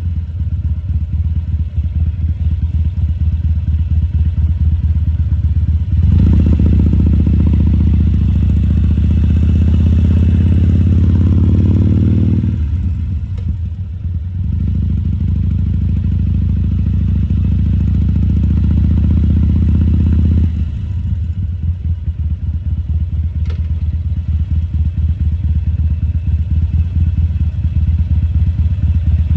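2014 Harley-Davidson Sportster 1200 Custom's air-cooled V-twin running with the throttle rising and falling: it picks up about six seconds in, eases off briefly near the middle, and settles into a lower, loping beat for the last third.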